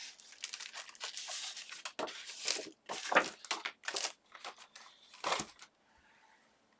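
Sheets of paper rustling and crinkling as they are handled and pulled from a stack, in irregular bursts that stop about five and a half seconds in.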